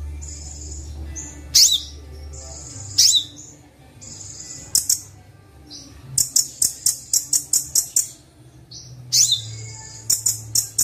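Recorded song of the kolibri wulung sunbird mixed with filler songbird calls: sharp rising high whistled notes and thin buzzy notes, then from about six seconds in a fast chattering run of short clicky notes, again near the end. A faint low hum runs underneath.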